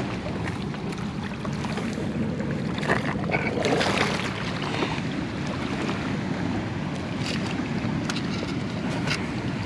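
Steady rushing noise of wind and moving water, with a few faint clicks.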